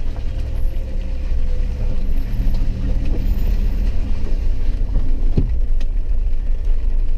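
Car driving on a muddy dirt road: a steady low rumble of engine and tyres, with a single sharp knock about five and a half seconds in.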